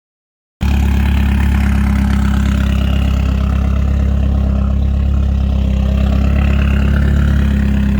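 Drift car's engine idling steadily, starting abruptly about half a second in after a moment of dead silence.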